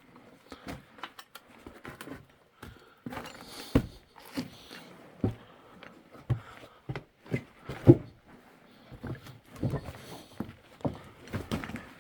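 Irregular footsteps, crunches and scuffs on loose rock, with a heavier thump about eight seconds in.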